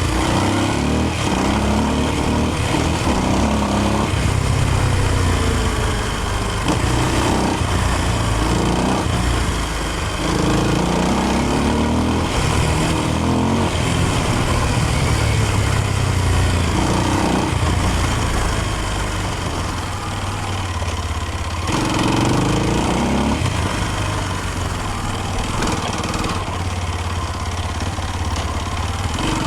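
Kawasaki KLX230's single-cylinder engine running while being ridden, its pitch rising and falling again and again as the throttle is opened and closed.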